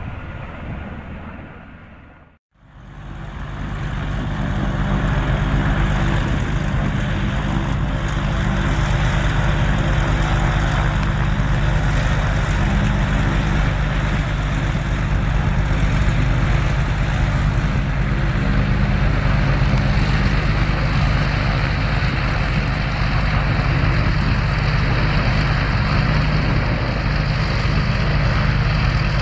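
Steady engine noise with a constant low hum, running unchanged after an abrupt cut about two and a half seconds in; a fading engine sound comes before the cut.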